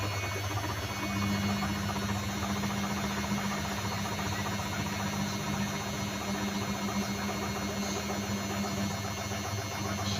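Zanussi washing machine running, its motor and drum giving a steady hum with a rough vibration, and a higher hum joining about a second in.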